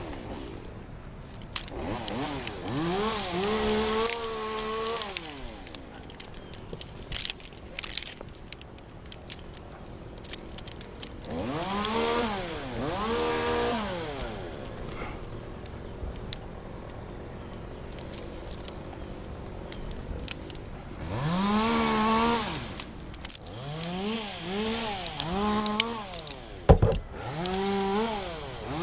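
A two-stroke chainsaw is revved up and back down in four separate bursts. Sharp metallic jingling and clicks sound in between.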